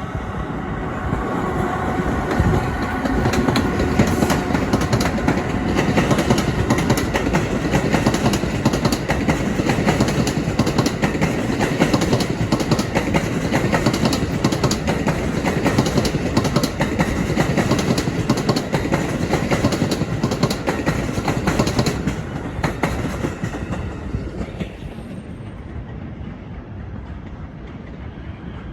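A train passing close by, with a dense clatter of wheels over rail joints, fading away over the last few seconds.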